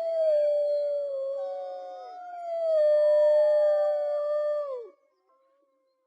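Wolves howling in chorus: several long, overlapping howls, some sliding gently down in pitch. They fall away together about five seconds in.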